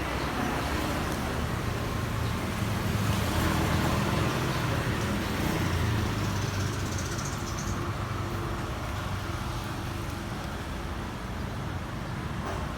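Steady road traffic noise with a low engine hum, swelling a little a few seconds in as a vehicle passes.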